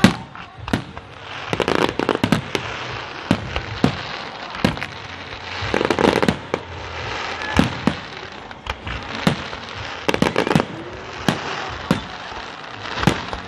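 Fireworks display: aerial shells bursting in a rapid, irregular series of sharp bangs, with crackling between them.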